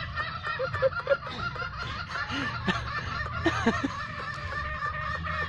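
Birds calling in a continuous chorus of overlapping, wavering calls, with a few short lower calls among them.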